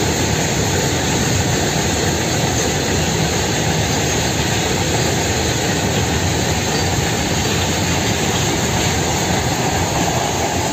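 Goods train's open freight wagons rolling past on the rails, a loud, steady, even rumble.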